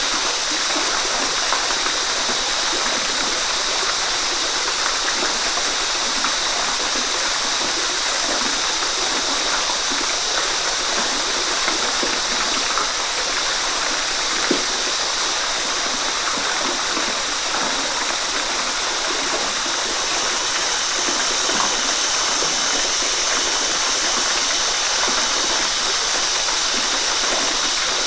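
Waterfall: water pouring and splashing in a steady, unbroken rush, with faint small splashes scattered through it.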